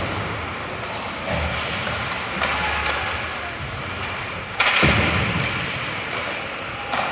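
Sounds of play in a large hall, with one hard, echoing thud about two-thirds of the way through.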